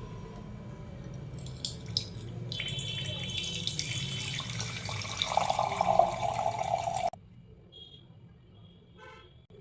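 Water running from a kitchen tap into the sink, growing stronger partway through and stopping suddenly about seven seconds in.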